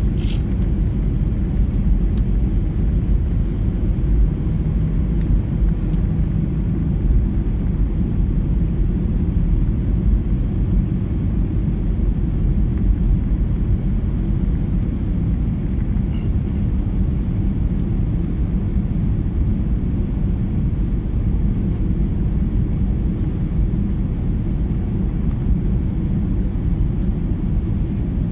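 Aircraft noise: a steady low rumble of engines and rushing air that holds even throughout.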